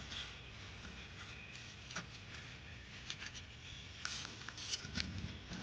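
Faint, scattered clicks and light scrapes of a hand scraper working old paint off a tractor starter motor, a few separate ticks in the second half.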